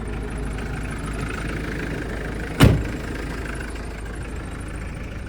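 Engine idling steadily, with one loud thump about two and a half seconds in.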